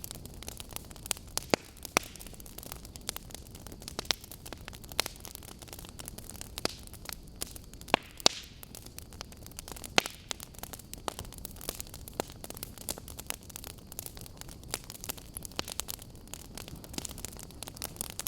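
Burning logs crackling: irregular sharp pops and snaps, a few of them much louder than the rest, over a steady low hiss.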